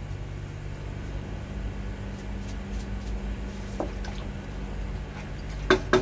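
Faint liquid and stirring sounds from a pot of water heating for ghee rice, over a steady low hum, with two sharp clinks of a utensil against the pot near the end.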